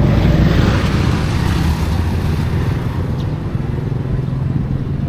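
A motor vehicle engine running close by amid street traffic. A wash of traffic noise swells over the first couple of seconds and then eases off.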